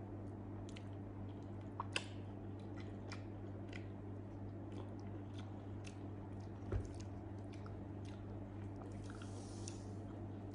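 Close-up mouth sounds of someone chewing soft grilled eggplant, with scattered wet clicks and smacks. A steady low hum runs underneath, and there is a soft thump about two-thirds of the way through.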